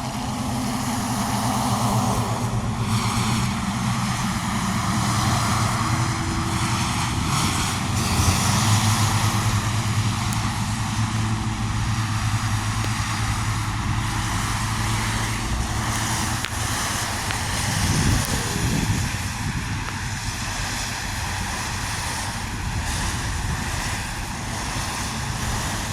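Steady hum of vehicle engines and road traffic, with a brief swell about two-thirds of the way through as a vehicle goes by.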